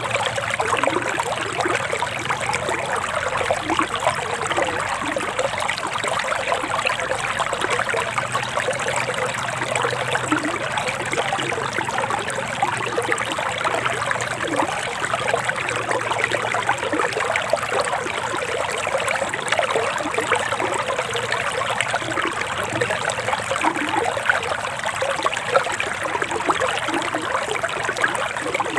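Forest stream flowing steadily with a continuous trickling, babbling water sound.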